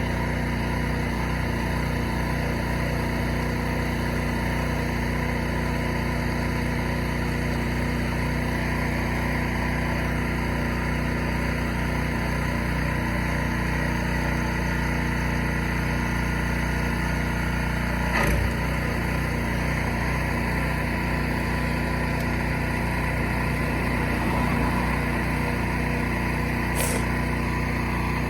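An engine running steadily at idle, a low, even hum, with a single brief knock about two-thirds of the way through.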